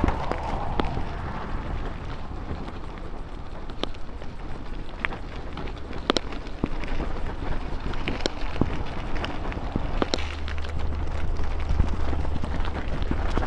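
A bicycle being ridden: a steady low rumble of the rolling tyres, broken by scattered sharp clicks and knocks from the bike.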